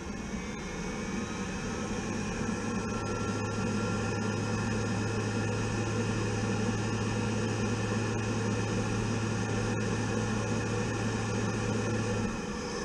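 Gas boiler running: a steady low electrical hum over a constant rushing noise, the hum cutting off about twelve seconds in. The boiler's circulator pump is trying to run but its impeller is damaged, so no water flows through the boiler.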